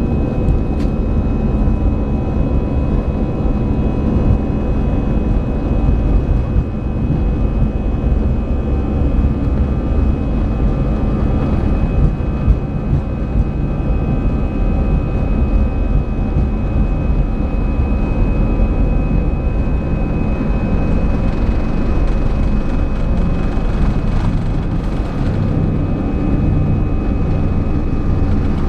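Airbus A320 cabin noise heard from inside the cabin: a steady, loud rumble of the jet engines and airflow, with several steady whining tones over it.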